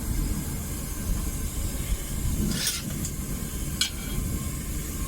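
Home-made propane furnace burner running with a steady low rumble and hiss. A couple of short clinks come through about two and a half and nearly four seconds in.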